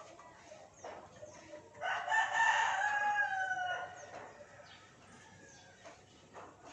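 A rooster crowing once, a call of about two seconds starting about two seconds in, falling slightly in pitch at the end.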